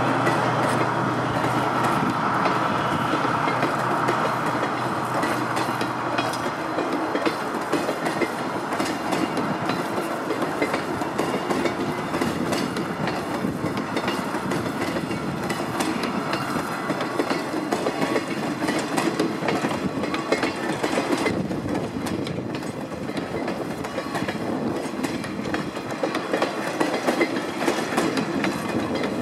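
A freight train of Koki container flatcars rolls steadily past, wheels clacking over the rail joints. In the first several seconds a low hum from the DF200 diesel-electric locomotive fades out.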